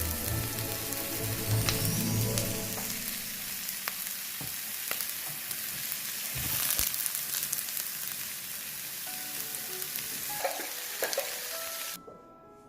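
Food sizzling in a hot frying pan, a steady hiss with small crackles and pops, which cuts off abruptly near the end.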